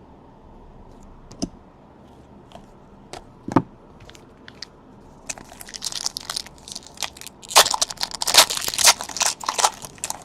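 Trading-card packaging and cards being handled: a few sharp clicks and snaps, then about five seconds of dense crinkling and crackling of a plastic or foil wrapper.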